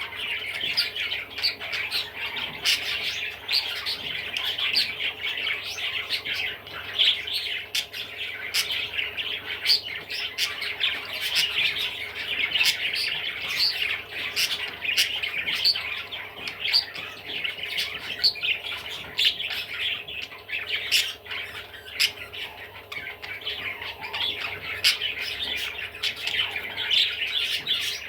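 Budgerigar chattering without pause: a dense, fast run of warbles and squawks mixed with sharp clicks.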